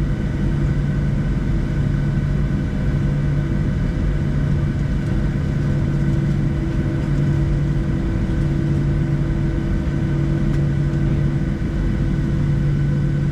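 Boeing 737-700 cabin noise: the CFM56 turbofan engines running, heard from inside the cabin as a steady drone with a low hum.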